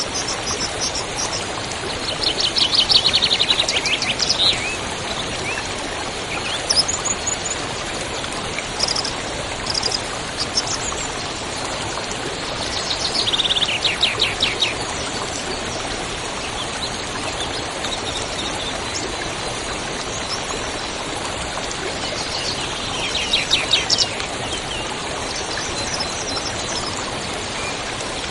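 Wild birds singing in a forest: three rapid trilled songs spaced about ten seconds apart, with scattered high chirps between them, over a steady rush of running water and a constant high insect buzz.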